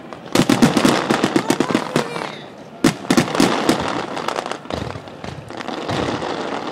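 Starmine fireworks barrage: a rapid run of sharp bangs and crackles in the first two seconds, one loud bang a little before three seconds in, then scattered pops and crackling.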